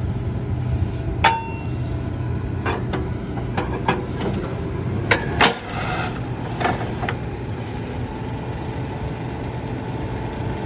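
Borewell drilling rig's engine running steadily, with a string of sharp metallic clanks over the first seven seconds or so as steel drill pipes are handled; one early clank rings on briefly.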